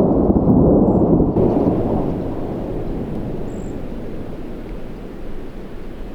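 A roll of thunder: a deep rumble, loudest in the first two seconds, then slowly fading away.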